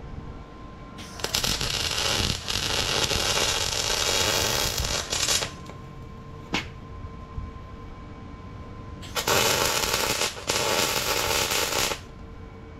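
Electric arc working steel in two long bursts, the first about four seconds long and the second about three, with a single sharp click between them and a faint steady hum underneath.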